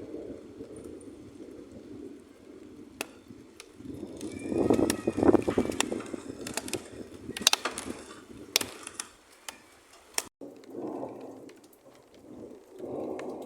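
Thunder rumbling, swelling about four seconds in to a loud stretch with sharp crackles, then dying back. It breaks off suddenly near the end and rumbles again.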